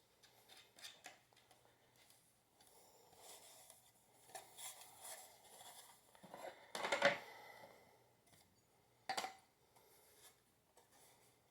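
Scattered light clicks and metallic clinks of ceiling-fan parts and tools being handled during assembly, with a louder clatter about 7 seconds in and a short sharp knock about 9 seconds in.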